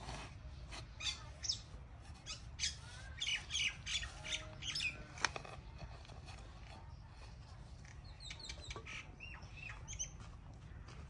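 Birds calling in quick short notes, thickest in the first half, with a few falling calls near the end. There is a single sharp tap about five seconds in, over a low steady rumble.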